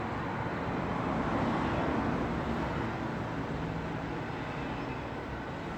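Steady road traffic noise: a continuous rumble and tyre hiss of vehicles on a road, swelling slightly about two seconds in.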